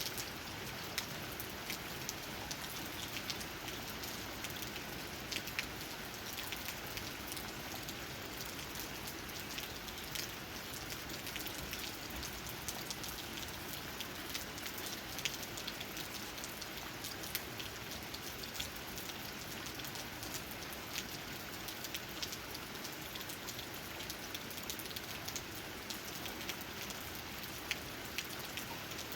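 Steady rain falling, with many close raindrops tapping on leaves as fine irregular ticks over a constant hiss.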